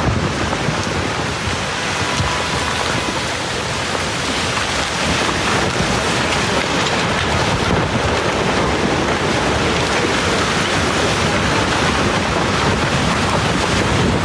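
Heavy rain in a storm: a loud, steady rushing hiss without a break.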